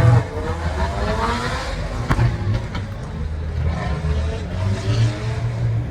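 Car engine running with a steady low rumble, with a sharp click about two seconds in.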